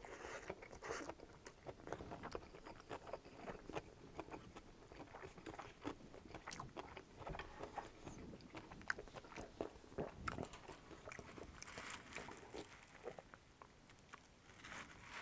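Close-up chewing of a mouthful of noodles, with many small wet mouth clicks and smacks.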